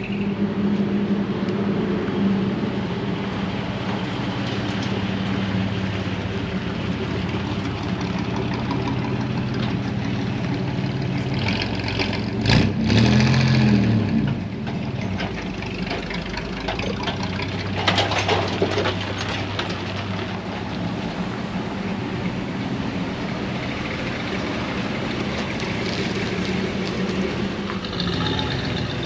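A truck engine idling steadily, with one brief rev about twelve seconds in, rising and falling in pitch.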